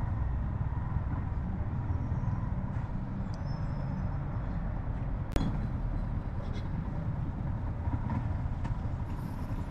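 Yamaha motorcycle engine idling with a steady low rumble while stopped at the pump, with one sharp click about five seconds in.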